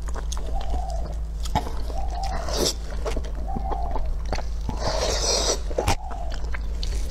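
Close-miked chewing and mouth sounds: wet smacks and clicks as a person bites and chews food, with two short hissing sounds, one about two and a half seconds in and a longer one around five seconds. A steady low hum runs underneath.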